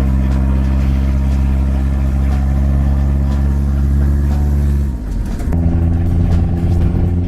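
Vehicle engine running at a steady speed. About five seconds in it breaks off suddenly into a different, rougher engine note.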